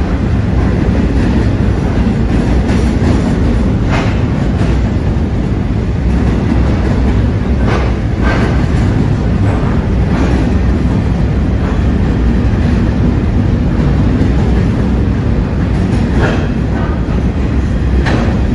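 Freight train's container wagons rolling past with a steady low rumble, and wheel clicks every few seconds.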